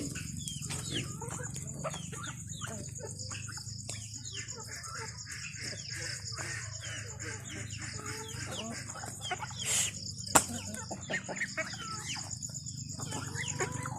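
A flock of chickens clucking and calling continuously as they feed, over a steady high insect drone. A single sharp knock comes about ten seconds in.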